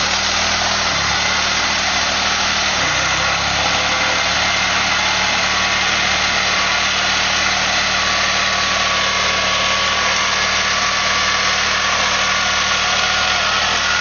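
Car engine held at high revs during a burnout over a steady rushing noise of spinning tyres. The revs dip about a second in, climb back after about three seconds, then hold steady.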